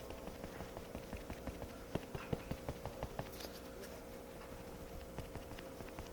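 Soft, irregular tapping and patting as liquid concealer is worked into the skin of the face, several small taps a second, over a faint steady hum.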